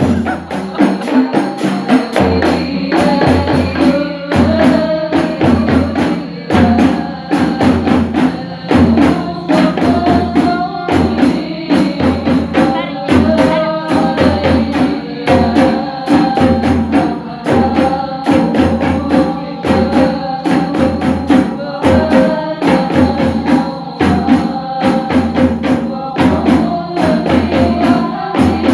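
Sholawat music from a hadroh ensemble: rebana frame drums with jingles and a low drum beat play a steady, dense rhythm under a stepwise melody.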